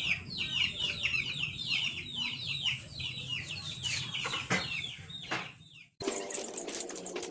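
Chickens calling: a rapid run of short, high, falling notes that fades out about six seconds in. A different sound then starts abruptly.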